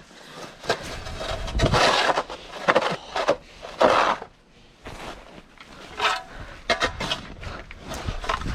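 Scraping and crunching in snow in several short, irregular bursts.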